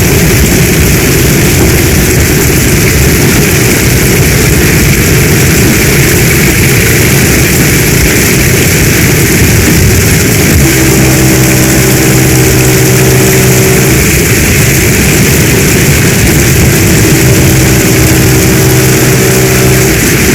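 Heavy rain pouring steadily. A low, steady humming tone comes in over it twice, about eleven seconds in and again about seventeen seconds in, for a few seconds each time.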